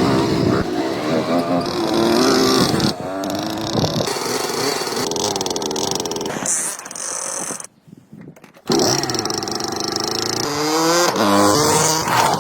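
Restored motorcycle's engine running and revving, heard across several edited clips, with a brief near-silent break about eight seconds in.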